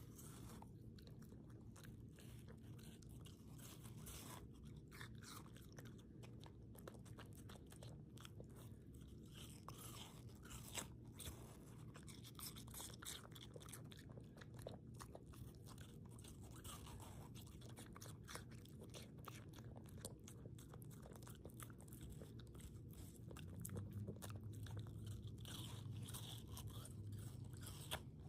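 Chewing and biting into watermelon: faint, irregular crunches and clicks, over a steady low hum that grows a little louder near the end.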